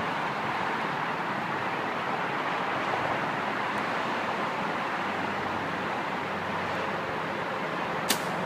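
Steady background hiss, then near the end one sharp snap of a Hoyt Spyder compound bow being shot, followed by a fainter click a moment later.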